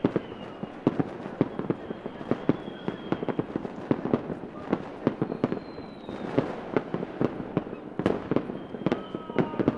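Fireworks going off in a dense, irregular string of bangs and cracks, several a second, with faint high whistling tones among them.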